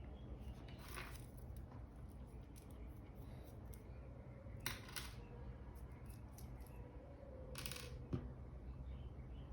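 Faint small clicks and three short scrapes of hands and a small tool working on a G-Shock watch and its band.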